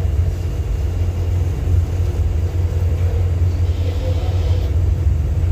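Steady low rumble aboard a ship underway.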